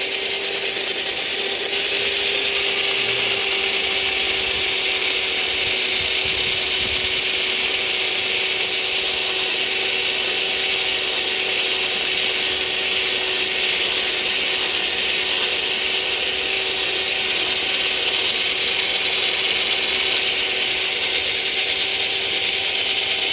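Power drill running at a steady speed for a long stretch, its bit cutting into a broken hardened-steel stud.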